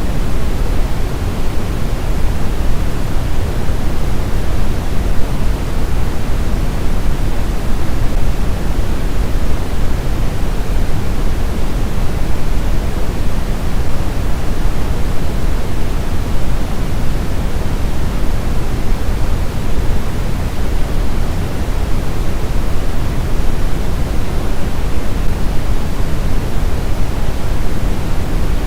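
Steady white-noise sleep sound: an even, unbroken hiss with a deep, rumbly weight, strongest in the lows and fading toward the highs, with no change in level.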